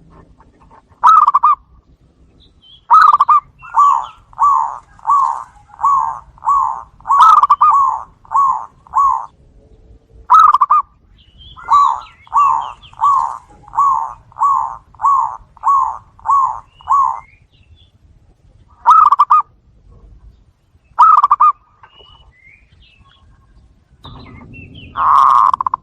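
Zebra doves (perkutut) cooing: short, loud coos around 1 kHz in quick runs of about eight, with single coos between the runs and a longer, fuller coo near the end. Faint high chirps sound above the coos.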